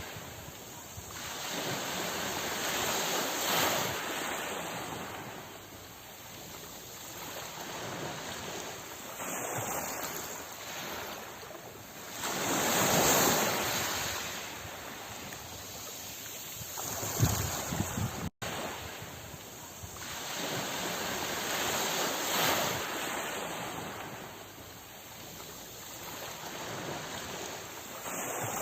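Sea waves washing onto a shore, the surf's hiss swelling and falling back in slow surges about every nine or ten seconds. There is a brief dropout about 18 seconds in.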